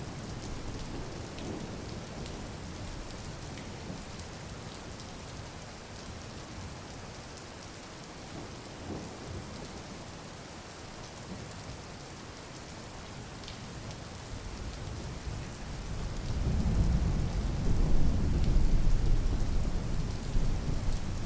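Steady rainfall, with a long low rumble of thunder building up in the second half and easing off near the end.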